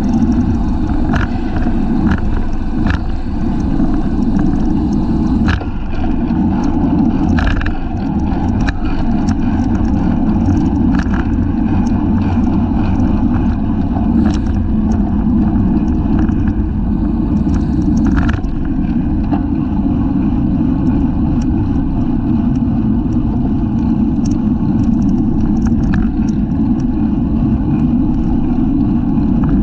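Wind rushing over the microphone of a bicycle-mounted camera at race speed, a steady low rumble, with road noise and scattered short clicks and rattles from the bike.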